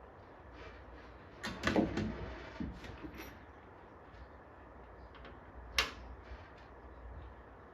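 Bench work handling noises: a quick cluster of knocks and clicks about one and a half seconds in, a few lighter taps after, then a single sharp click near six seconds.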